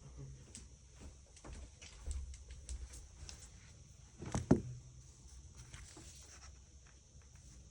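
Faint taps and clicks of small handling noises, with one louder knock about four and a half seconds in.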